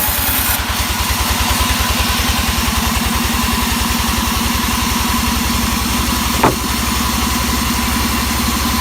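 An engine idling with a steady low chugging pulse, likely the engine driving the teak-log saw. There is a single sharp knock a little past the middle.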